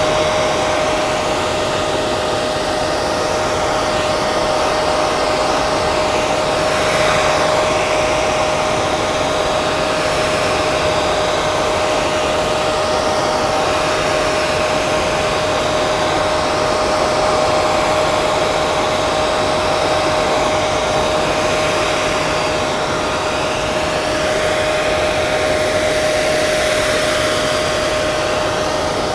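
Hair dryer running steadily, its fan and airflow making an even rushing noise with a steady motor whine just under 600 Hz.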